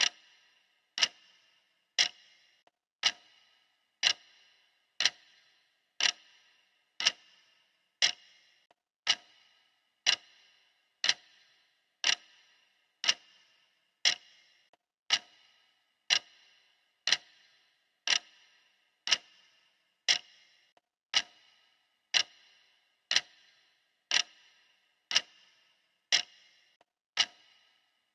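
Clock ticking steadily, one sharp tick a second, each with a short ringing tail.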